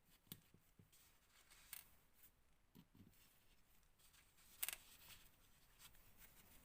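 Faint, sparse clicks and taps of small metal engine parts and screws being handled and fitted by hand, with one brief louder scrape about four and a half seconds in.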